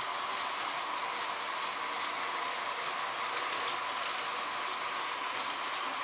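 H0-scale model trains running on the layout's track: a steady running noise of small electric motors and wheels on rails, with a few faint clicks about three and a half seconds in.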